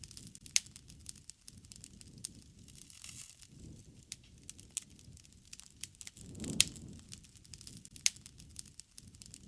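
Wood fire crackling, with irregular sharp pops. The loudest pops come at about half a second and six and a half seconds in, the second with a brief low rush.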